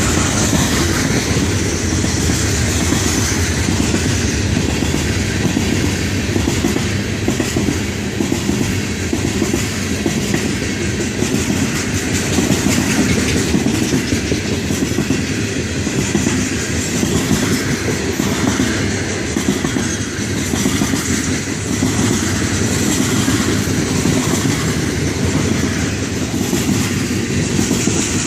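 Cars of a Florida East Coast Railway freight train, a long rock train, rolling past: a steady rumble of steel wheels on the rails with a high hiss, unbroken throughout.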